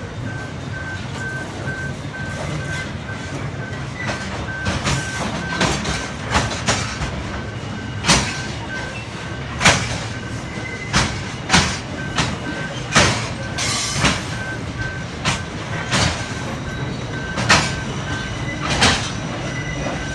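Loaded covered grain hopper wagons rolling past: a steady low rumble with sharp clacks of wheels over rail joints, starting about four seconds in and coming roughly once a second. A crossing alarm beeps in a steady on-off rhythm throughout, pausing briefly past the middle.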